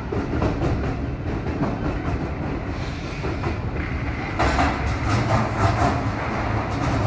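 Keihan 3000-series electric train running on the rails, heard from inside the car, with a steady rumble. About four and a half seconds in comes a run of clicks as the wheels clatter over rail joints.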